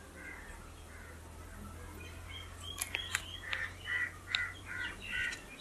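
Birds calling faintly in short, repeated calls that start about halfway through, over a faint low hum.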